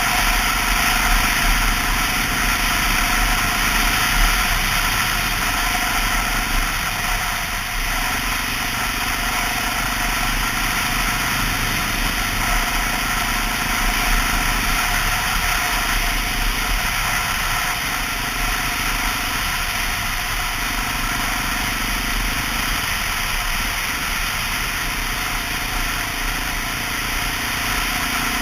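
A 2002 Honda XR650L's single-cylinder four-stroke engine runs steadily as the bike is ridden, under a constant rushing noise. The engine note shifts a little every few seconds.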